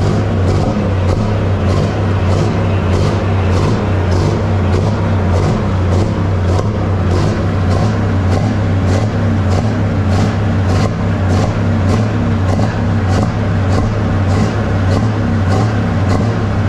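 Pulling tractor's engine running loud and steady at high revs, with a regular sharp ticking beat about twice a second over it.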